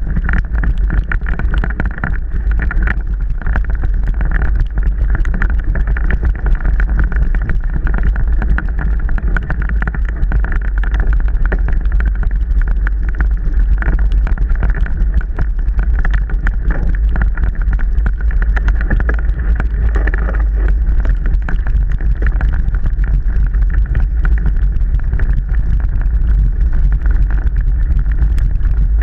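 Mountain bike being ridden over a trail: steady wind rumble with dense, constant rattling and small knocks from the bike.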